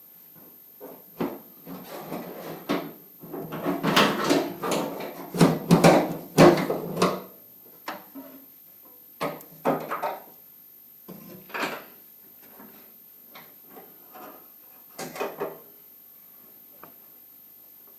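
Knocks, clunks and rubbing as shifter cables are handled and worked through a firewall hole, busiest over the first seven seconds, then a few scattered knocks.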